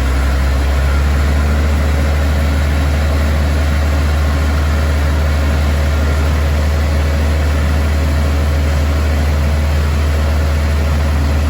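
Case IH 2388 combine running steadily while threshing wheat: an even, loud low drone of the diesel engine and threshing machinery.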